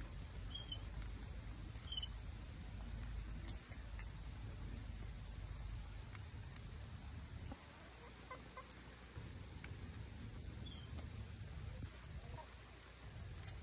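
A steady low rumble with a few short, faint, high-pitched bird chirps scattered through it, about three in all.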